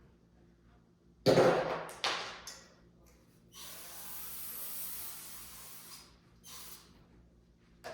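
Couch pillows being handled: two soft thuds about a second apart. Then a steady hiss for about two and a half seconds and a brief one after it.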